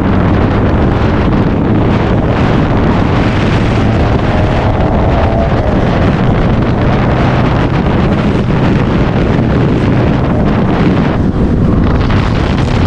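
Wind blowing hard on the microphone over the steady hum of a car's engine and road noise, as from a moving car.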